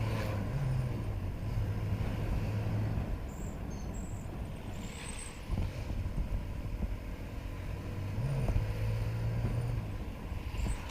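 Hero Honda Glamour 125cc single-cylinder motorcycle engine running at riding speed, with steady wind and road noise. The engine note is strongest in the first few seconds and again about eight seconds in.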